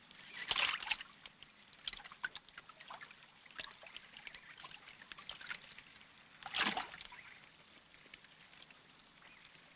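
Water splashing and dripping: two short splashes, about half a second in and again near seven seconds, with small scattered drips and splashes in between.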